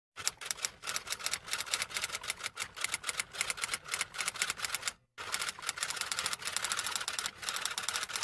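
Typing sound effect: a fast, irregular run of keystroke clicks, many a second, with a short break about five seconds in.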